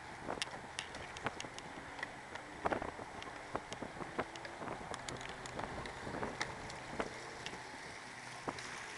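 Water splashing and slapping in many small sharp pats against a jet ski on a river, over a faint low engine hum.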